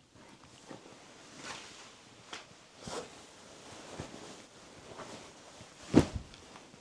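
Soft rustling and handling noises, with one louder thump about six seconds in.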